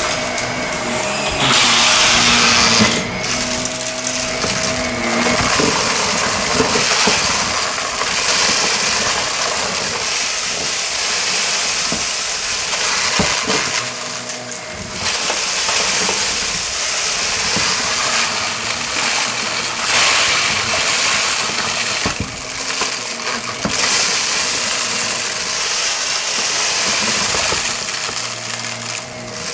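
Shark vacuum cleaner running on carpet with a steady motor whine, swelling and easing every couple of seconds as it is pushed quickly back and forth, with a few sharp clicks of debris being sucked up.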